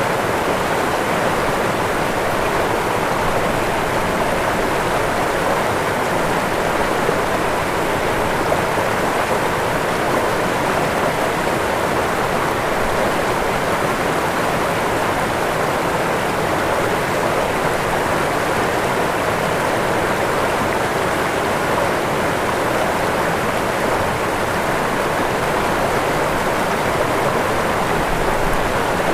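Waterfall: steady rushing of falling water, unchanging throughout.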